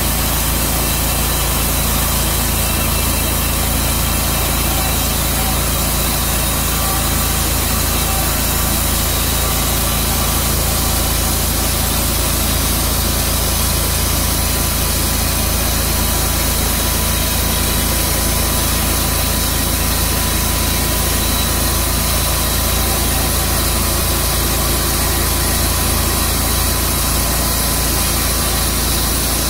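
Tru Cut sawmill running steadily as it saws through a maple log: a constant engine-driven drone that holds the same level throughout.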